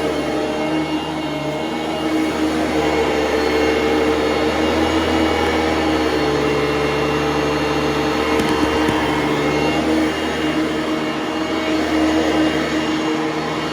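Bissell ProLite vacuum cleaner running steadily, its motor hum shifting slightly up and down in pitch.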